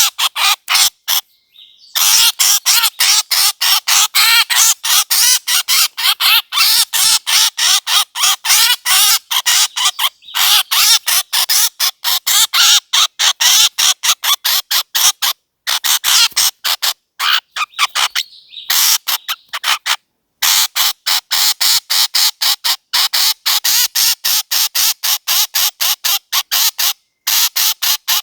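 A bird's harsh, squawking calls repeated rapidly, several notes a second, with a few brief pauses: a recorded bird call played as a lure for bird hunting.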